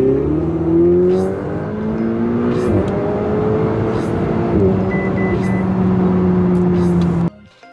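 Ferrari 488's twin-turbo V8 accelerating, its pitch climbing and dropping sharply at two upshifts, then holding steady while cruising. The sound cuts off suddenly shortly before the end.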